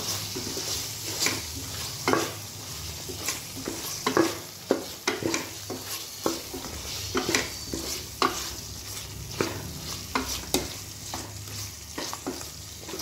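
Mutton and whole spices frying in oil in an open pressure cooker, sizzling steadily while a spatula stirs them, scraping and knocking against the pot at irregular intervals. This is the bhuna stage, with the masala roasted on high heat.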